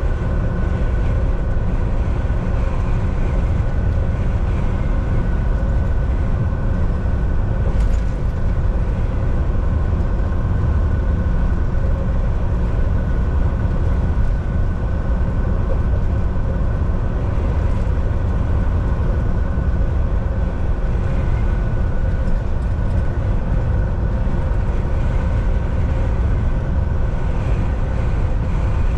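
Volvo VNL 760 semi-truck cruising on the highway, heard from the driver's seat: a steady, loud low rumble of engine and road noise with a steady hum over it.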